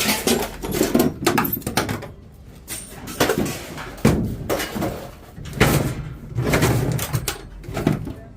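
Scrap items being handled and sorted: irregular knocks, clunks and clatters as objects are picked up, moved and dropped, with brief quieter gaps.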